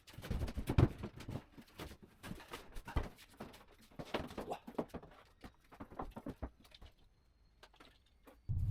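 Irregular knocks, taps and scrapes of hand work on a plywood boat platform. About eight and a half seconds in, an electric motor starts and runs steadily with a low hum.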